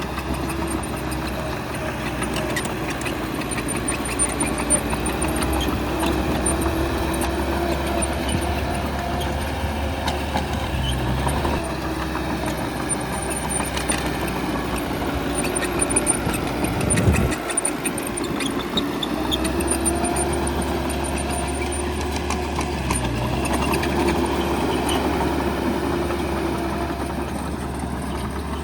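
Bulldozer's diesel engine working under changing load, its pitch rising and falling. About two-thirds of the way through comes a sharp knock, and the deep rumble drops away for a second or two before returning.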